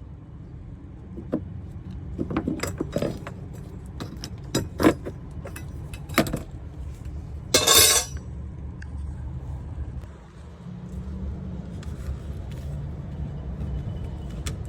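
Metallic clinks and knocks of hand tools and parts being handled, with a brief, louder rattle about seven and a half seconds in, over a low steady rumble.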